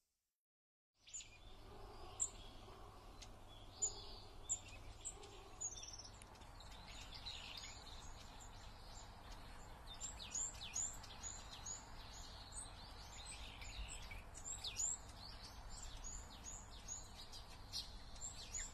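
Small birds chirping: many short, high, down-sweeping chirps over a low background hum. They start about a second in and come thicker and faster in the second half.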